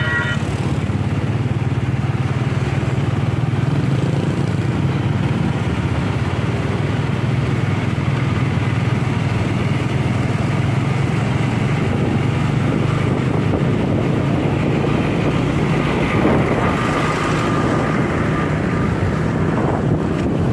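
Truck engine running steadily with a continuous low drone, with a faint whine for a couple of seconds near the end.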